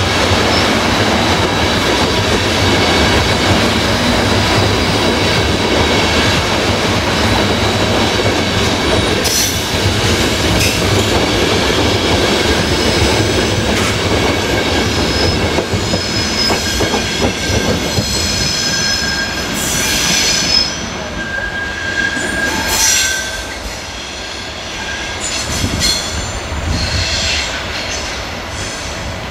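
Electric train passing close by, a steady rumble of wheels on rail. High-pitched wheel squeal comes in from about halfway, and the noise eases off toward the end as the train draws away.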